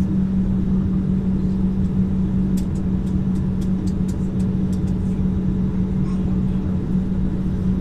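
Airliner cabin noise heard from inside the passenger cabin: a steady low rumble with a constant low hum. A run of about a dozen light clicks comes in the middle.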